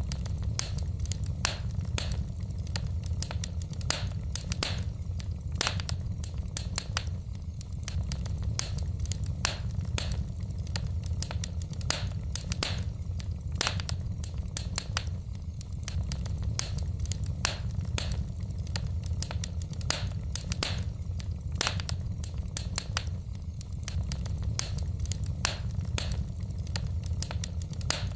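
Wood fire crackling in a fireplace: frequent irregular sharp pops and snaps from the burning logs over a steady low rumble.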